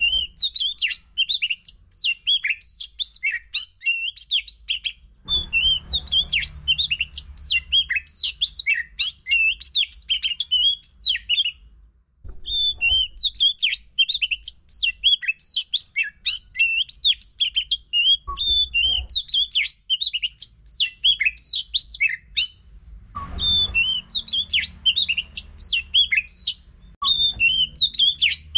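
Oriental magpie-robin (kacer) singing a fast, unbroken string of high chirps, trills and whistles, with a brief pause about twelve seconds in. A faint low hum lies under parts of the song.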